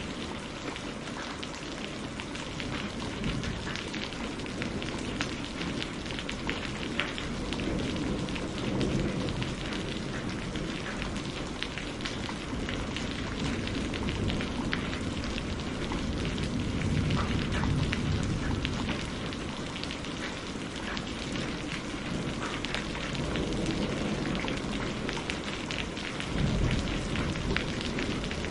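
Steady rain falling with many small drop ticks, mixed with the crackle of burning firewood. A low rumble swells up and fades a few times.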